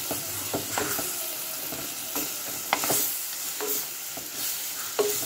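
Sliced tomatoes and onions sizzling in oil in a clay pot as a spatula stirs them, with irregular scrapes and knocks of the spatula against the pot over a steady sizzle.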